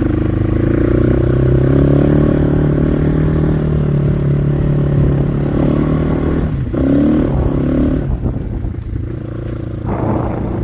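Motorcycle engine running steadily while being ridden; about two-thirds of the way in the engine note eases off and there is some clatter and scraping.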